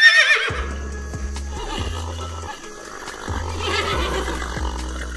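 A horse whinnying: a loud neigh with a quavering, falling pitch at the start, and a second, softer whinny about four seconds in, over background music with a steady beat.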